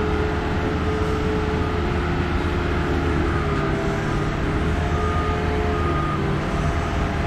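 Boatyard travel lift's engine running steadily, a low rumble with a steady whine over it.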